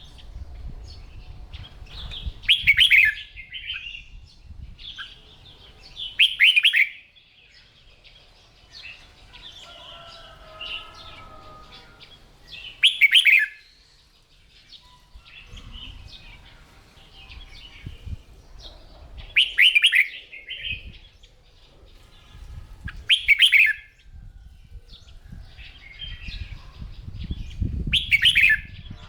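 Red-whiskered bulbul singing: about six loud, short, warbling song phrases a few seconds apart, with softer chirps and twitters between them.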